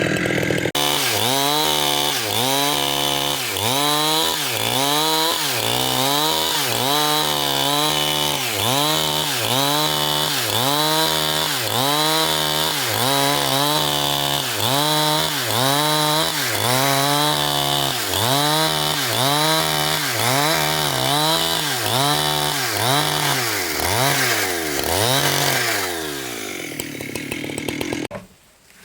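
Chainsaw cutting through a large log. The engine pitch rises and falls in an even rhythm, about one and a half times a second, as the saw bites and eases. It winds down near the end and stops.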